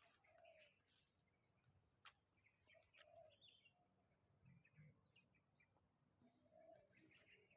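Near silence, with faint scattered bird chirps and one soft click about two seconds in.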